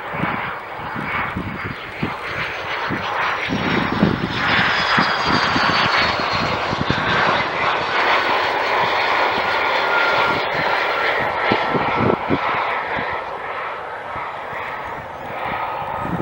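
Cessna Citation Encore+ business jet's twin Pratt & Whitney PW535 turbofans running loudly as it passes during a touch-and-go. A steady jet roar carries a turbine whine that slides slowly down in pitch as the aircraft goes by.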